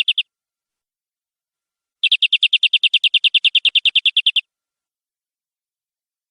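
Domestic canary singing rapid trills of evenly repeated notes, about ten a second: the tail of one trill right at the start, then a longer trill of about two and a half seconds beginning about two seconds in.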